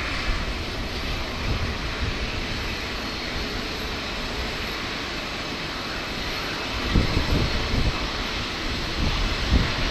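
Jet engines of a Boeing 737-800 airliner running steadily during its pushback. From about seven seconds in, wind buffets the microphone in low gusts.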